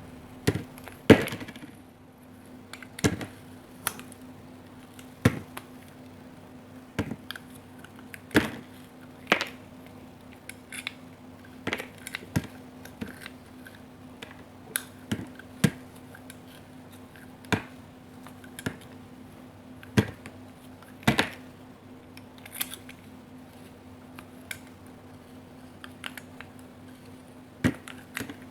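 A knife cutting and carving through bar soap: crisp, separate crunching cuts at irregular intervals, about one every second or two.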